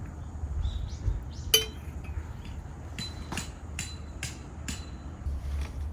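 Hard objects being handled: a series of light knocks and clicks, with one sharp, ringing clink about a second and a half in.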